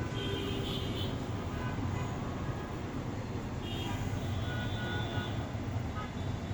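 Steady low background rumble, like road traffic, with a few brief faint high tones now and then.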